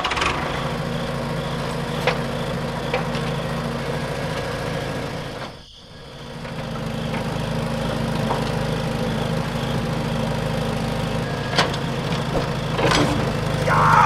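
A small motor running steadily with a low hum and a few light clicks; the sound drops away briefly about six seconds in, then picks up again.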